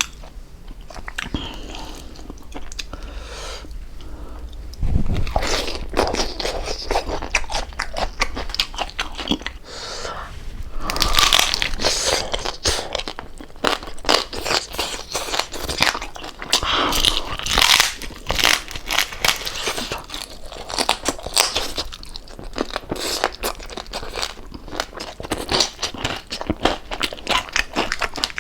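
Close-up crunching and chewing of crispy fried pork jowl skin, a long run of loud, irregular crackles as the crackling is bitten and chewed.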